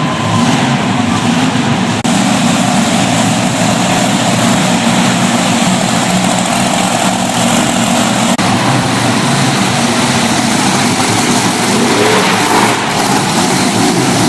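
Monster truck engines running, a loud steady roar with brief breaks about two seconds in and again past the middle.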